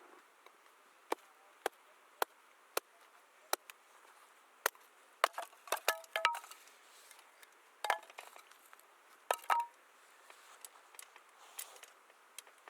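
Single sharp taps at a steady pace, about one every half second, then three bursts of cookware and utensils clinking, each with a brief ring.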